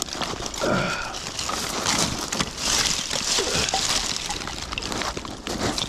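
Irregular crunching footsteps on beach pebbles, over surf washing on the shore that swells midway.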